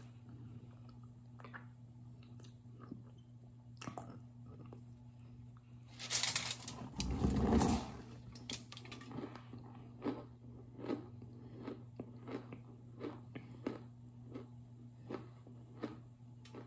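Teeth biting into a toasted cornstarch brick with a loud crunch about six seconds in, then steady crunchy chewing of the mouthful, about two crunches a second.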